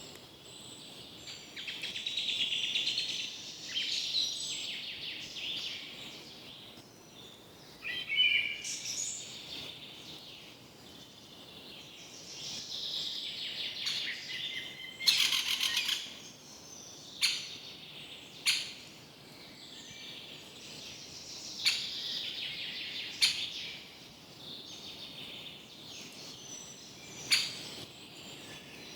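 Forest birds singing and chirping, several overlapping. About halfway there is a quick rattling burst, and several short sharp clicks are the loudest sounds.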